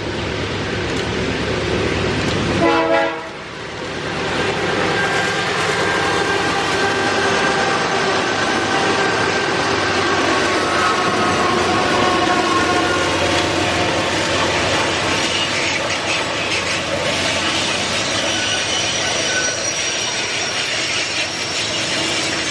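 A diesel locomotive's horn gives one short blast about three seconds in. Then diesel locomotives work hard under power as a train rolls past, with steady engine noise and wheels clacking on the rails.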